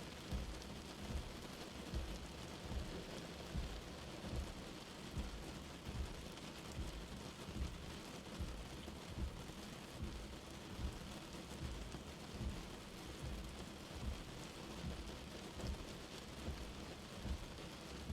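Light rain falling steadily, a soft even patter, with low soft thuds of heavier drops about once a second.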